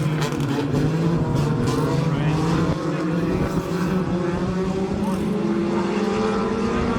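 Dirt-track race cars running flat out around the oval. The engine note dips slightly early on, then climbs steadily as they accelerate.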